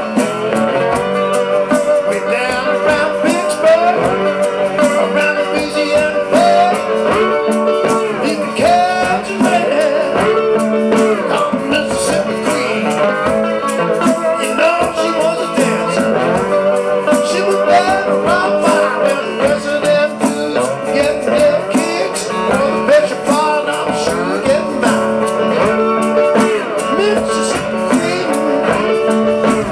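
Live blues band playing, with electric guitar lines over a steady drum beat.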